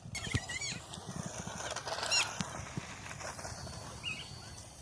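Wild birds calling with short, quick, up-and-down chirps, in small clusters, over a few low knocks and faint rustling.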